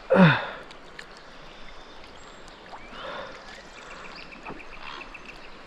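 Steady hiss of rain and flowing creek water, with a short run of quick faint ticks about four seconds in.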